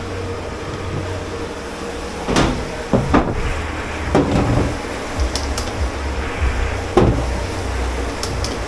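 Dishware and pots being handled in a commercial dish pit: several sharp knocks and clatters, the loudest about two to three seconds in and again near seven seconds. Under them runs a low, steady hum of kitchen machinery.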